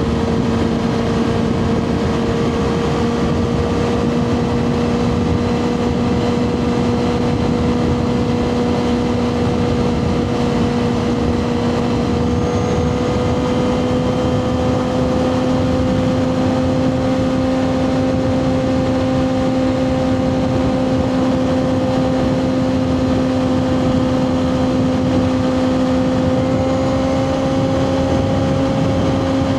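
2024 Kawasaki ZX6R's inline-four engine running through a Two Brothers slip-on exhaust at a steady, held engine speed, its pitch creeping slowly higher as the bike gains speed in one gear. A steady rush of wind and road noise lies under it.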